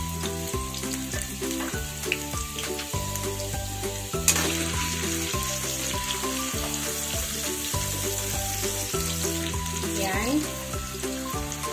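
Carrot chunks sizzling as they fry in oil in a nonstick wok, stirred with a spatula. There is a sharp tap about four seconds in, after which the sizzle is louder. Background music with a stepping melody plays under it.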